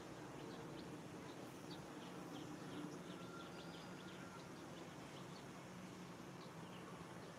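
Faint outdoor ambience: a steady low background noise with scattered short bird chirps throughout.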